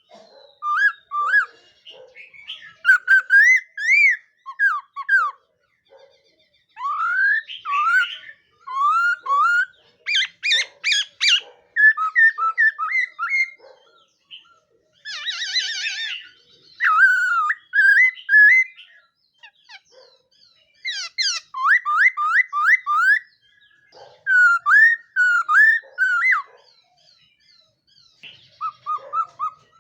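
Khướu mun laughingthrush singing a long, varied song of whistled phrases: sliding notes that rise and fall, runs of fast repeated notes, and short pauses between phrases.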